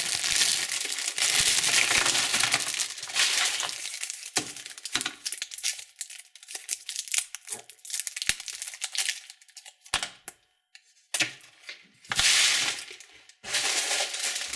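Candy wrappers crinkling as they are handled. The crinkling comes in spells, with scattered small clicks and taps and short quiet gaps in the middle stretch.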